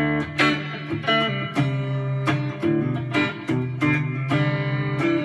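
Gretsch G2622T Streamliner electric guitar played on its neck pickup alone: a run of picked notes and chords, about two a second, each ringing out.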